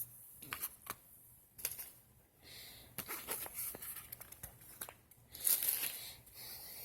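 Handling noise as lockout tools and their plastic packaging are picked up and set down: scattered light clicks and a couple of short bursts of crinkling plastic, about two and a half seconds in and again near the end.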